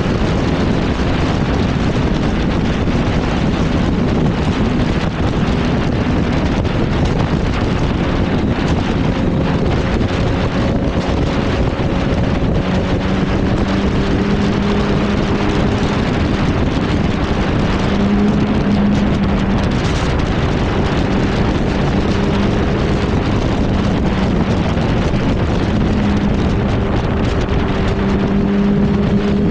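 Yamaha R1's inline-four engine running at a steady cruise, its pitch holding nearly level with small rises and dips, under heavy wind noise on the microphone.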